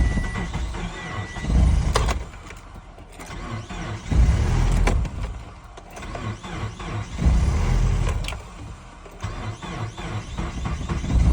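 A 2007 Subaru Forester 2.5XS's 2.5-litre flat-four struggles through a hard start in extreme cold, running in uneven surges about every three seconds. A beeping chime sounds at the start, and a sharp click comes about two seconds in.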